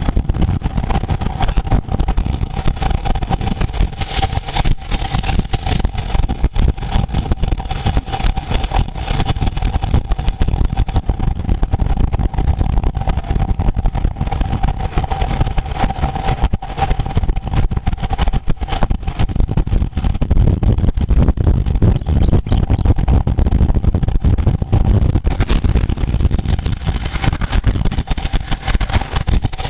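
Wind rushing over the microphone and road rumble from riding at speed, with a steady humming tone throughout.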